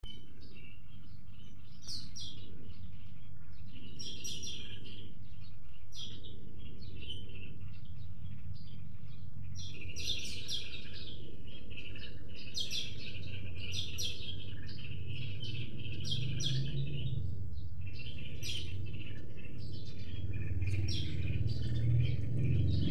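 Several wild songbirds chirping and singing, with short high calls and trills repeating throughout, over a steady low rumble that grows louder near the end.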